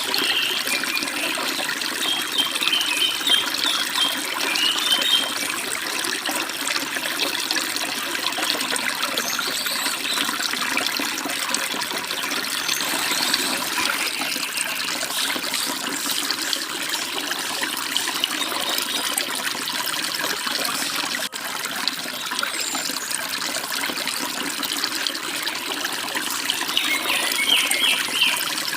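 Steady rushing and babbling of a forest stream flowing over small waterfalls, with a few short bird chirps in the first few seconds and again near the end.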